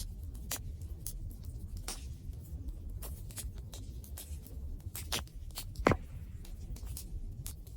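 Wood campfire burning, with a steady low rumble and irregular sharp crackles and pops; the loudest pop comes about six seconds in.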